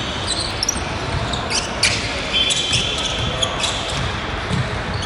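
Basketball game play in a gym: a ball bouncing on the court amid short, sharp, high squeaks and background voices.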